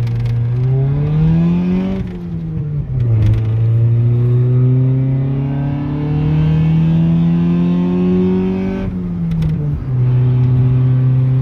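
Car engine pulling hard through the gears: the revs climb for about two seconds, fall at a gear change, then rise steadily for about six seconds. About nine seconds in the revs drop again and settle to a steady note.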